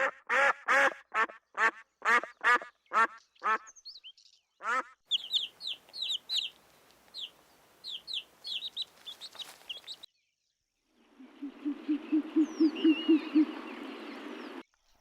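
Bird calls in three short clips: a run of about ten harsh calls, then high, thin chirping, then a fast run of low clucks over a steady hiss.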